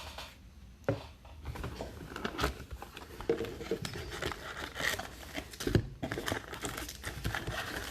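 Plastic wrapping on trading card boxes crinkling and tearing as it is pulled open by hand, with a run of irregular crackles and rustles.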